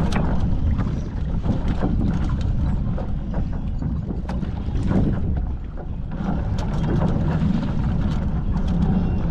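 Wind buffeting the microphone and water rushing and slapping against the hulls of a Hobie 14 catamaran under sail, with scattered short splashes and knocks.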